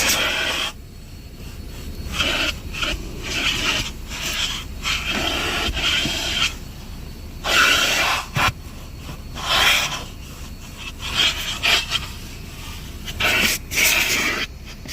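Car wash vacuum hose nozzle being dragged over the car's carpet, giving irregular bursts of rushing, scraping suction noise.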